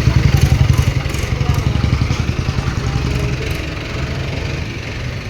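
Mahindra Arjun 555 tractor's diesel engine running with a fast, low chugging. It is loudest for about the first second and a half, then eases down toward the end.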